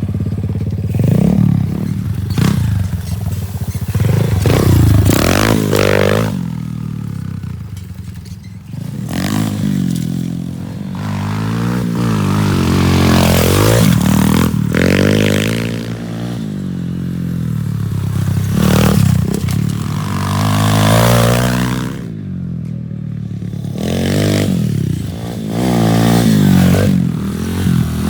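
Pit bike engine revving up and falling back again and again as it is ridden, with a rattly clatter; it drops off briefly twice.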